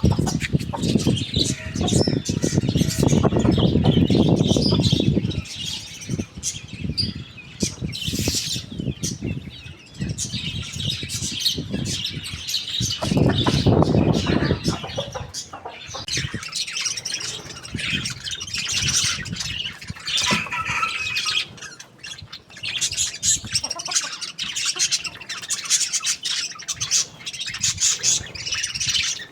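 Birds chirping and squawking continually, with two loud bouts of wing flapping, the first in the opening seconds and the second about halfway through.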